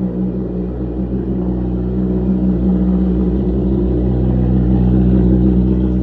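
Motorcycle engine running at steady revs, growing a little louder toward the end.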